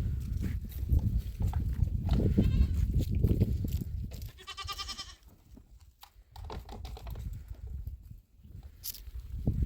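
A goat bleats once, a quavering call about halfway through, over a loud low rumble with scattered knocks.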